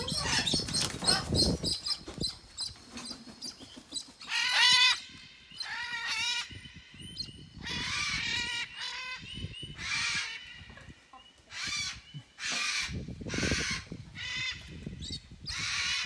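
Free-flying pet parrots giving harsh, repeated squawking calls, one every second or two. A low rumble is heard in the first couple of seconds.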